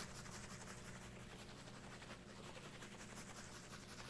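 Faint scratchy shaking of a water bottle, moving around the listener in binaural audio, over a steady low hum.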